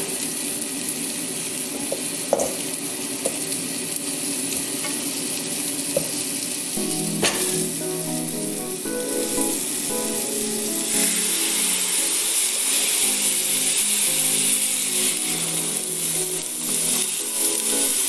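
Sheep head and trotters frying with onions and tomatoes in a steel pot: a steady sizzle, with a few sharp clicks in the first half, growing louder about eleven seconds in. Background music with a melody is heard over it, most clearly from about seven seconds in.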